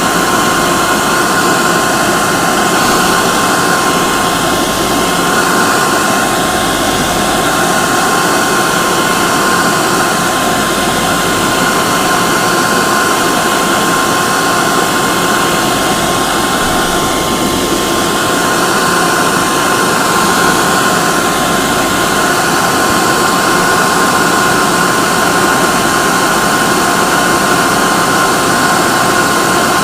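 Hair dryer running steadily: a constant rush of air with a steady high whine from its motor.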